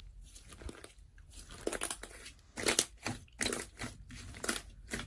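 Crinkling, crunching handling sounds in a few short crackly bursts, close to the microphone in a small room.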